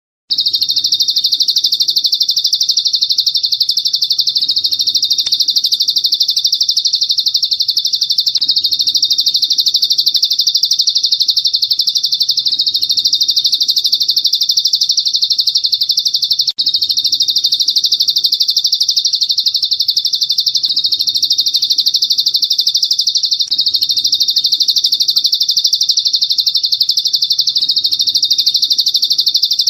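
A songbird's high, rapid trill, recorded for song training, runs on without a break. It drops out for an instant twice, where the recording is spliced.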